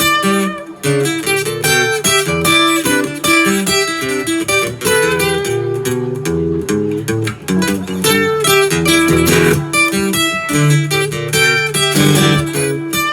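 Acoustic guitar playing an instrumental passage: quick picked notes moving over a bass line, with some strumming.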